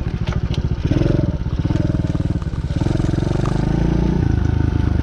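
Single-cylinder four-stroke engine of a DB14 110cc pit bike running while ridden, the throttle opened and eased off several times so the revs rise and fall.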